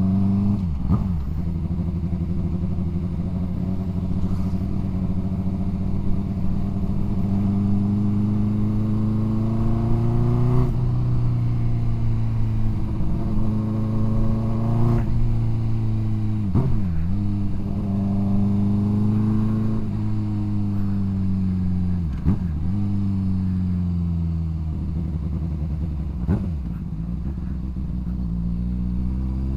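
Yamaha MT-07 parallel-twin engine and exhaust under way: the engine note climbs gradually and then drops sharply at each gear change, several times, with spells of steady running in between.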